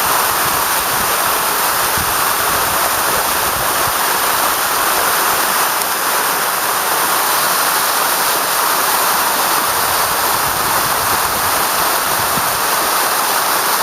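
Waterfall: water falling onto rock in a steady, even rush.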